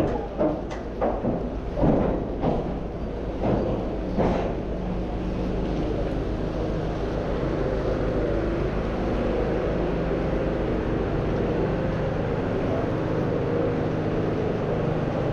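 Street traffic noise: a vehicle engine humming steadily over a constant hiss, with several short knocks or clatters in the first four seconds.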